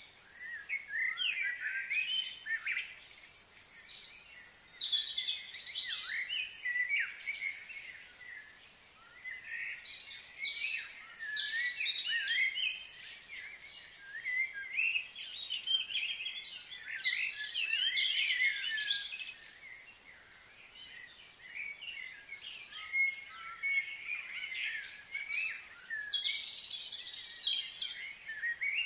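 Several birds singing and chirping at once, a dense chatter of quick, rising and falling high notes that comes in bursts with short, quieter lulls.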